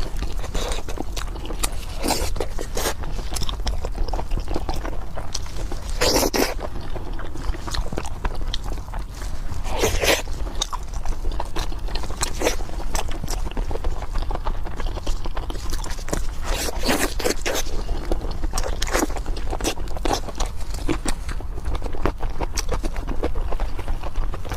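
Close-miked eating of pork: irregular biting and chewing crunches and mouth clicks, over a steady low hum.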